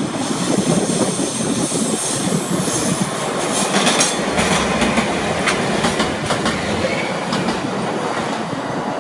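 A DE10 diesel locomotive hauling 521 series electric-train cars rolls past, wheels clicking over rail joints with some wheel squeal. The clicking comes thickest from about three and a half to seven and a half seconds in.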